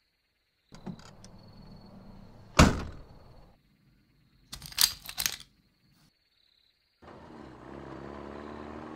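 A small lorry's engine rumbling, with one heavy thunk about two and a half seconds in and a quick cluster of sharp knocks around five seconds. Near the end the lorry's engine runs steadily as it drives off.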